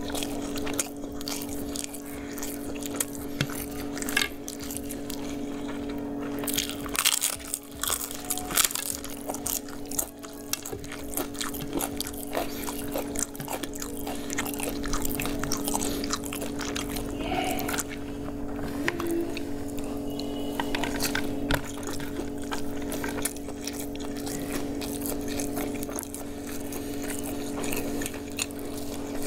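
Close-up eating sounds: a person chewing biryani rice and fried chicken, with wet mouth noises and many short clicks and crunches, over a steady low hum.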